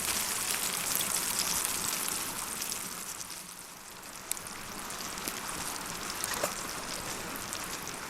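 A large sirloin steak sizzling over a campfire: a steady high-pitched hiss with scattered small pops and crackles, easing a little quieter partway through.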